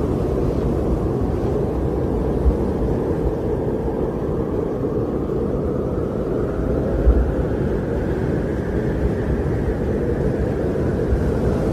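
Winter wind blowing steadily, a deep rushing sound that slowly swells and eases, with brief low thumps about two and a half seconds in and again about seven seconds in.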